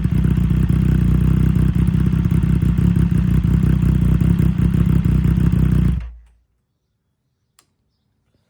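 Triumph Street Triple 765's three-cylinder engine idling steadily through a loud HP Corse GP07 exhaust on decatted stock headers, then switched off about six seconds in, the sound dying away quickly.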